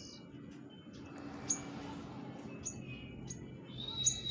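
Sogok ontong bird giving a few short, high chirps spaced apart. Near the end a thin high whistle begins, over a low steady background hum.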